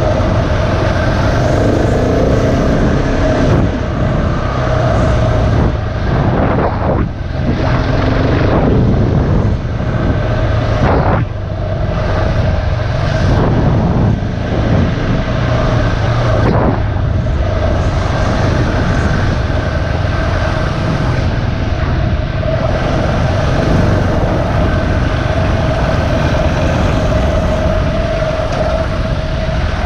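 Dirt bike engine running steadily under way on a trail ride. The throttle eases off briefly a few times, about a third of the way in, near the middle, and just after.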